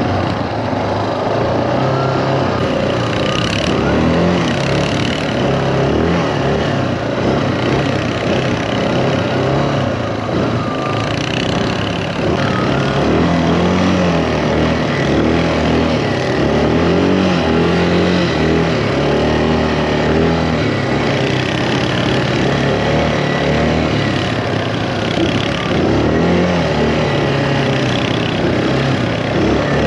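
Quad bike engine running under way, its pitch rising and falling repeatedly with the throttle.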